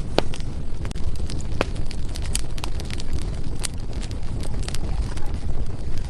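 Wood fire burning in a fireplace: a low, steady rumble of flames with irregular sharp crackles and pops from the burning firewood.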